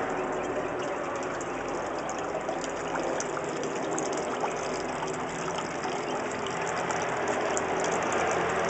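Garden water fountain splashing steadily, with a low hum underneath that grows a little louder near the end.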